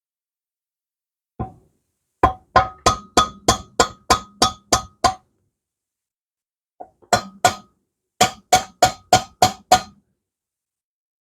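Hammer blows on metal, about three a second, each with a short ringing tone. They come in two runs of about ten and then eight strikes, with a pause of about two seconds between them.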